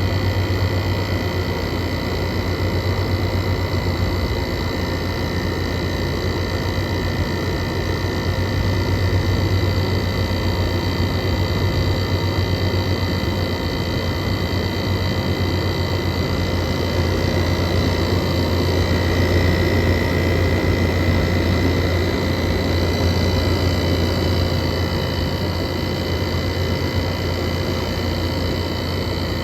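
Air conditioner running: a steady low compressor hum with thin whining tones over the rush of the fan.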